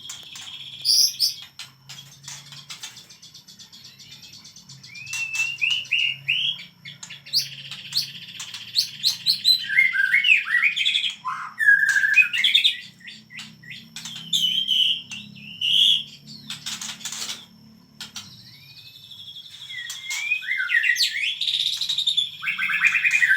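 White-rumped shama (murai batu) singing in loud runs of quick, varied whistled and chattering phrases, with short pauses between the runs.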